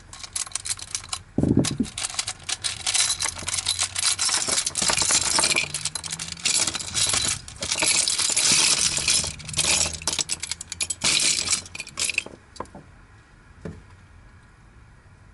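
Plastic twisty-puzzle pieces of a Wheel of Time puzzle clicking and clinking in a rapid, dense run as the puzzle is handled, with one dull thump about a second and a half in. The clicking stops about twelve seconds in.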